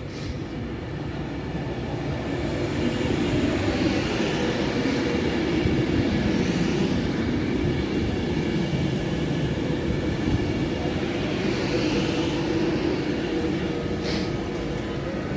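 Train running with a steady rumble and faint whining tones, growing louder over the first few seconds and then holding steady.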